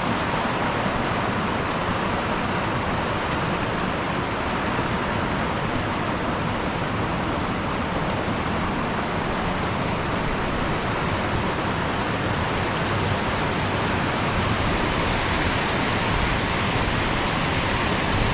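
Waterfall: fast white water rushing steadily down between boulders into pools, an even, unbroken rush.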